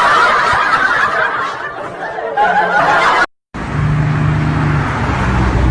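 Laughter and chatter, cut off abruptly; after a short silence comes the steady hum and rumble of a car's engine and road noise.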